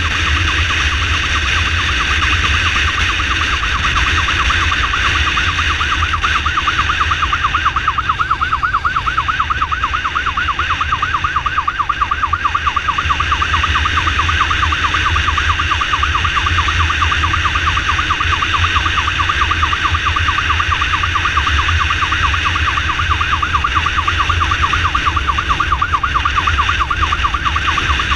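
Motorcycle ambulance's electronic siren in a fast, steady warble, over a constant low rumble of the moving motorcycle.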